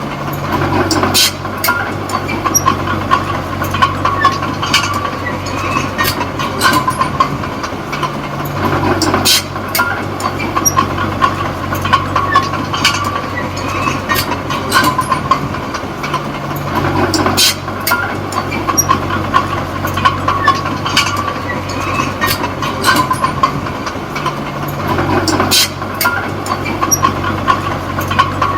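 Komatsu D20P crawler bulldozer's diesel engine running under load, its steel tracks clanking and squealing as it pushes soil. The engine note changes about every eight seconds.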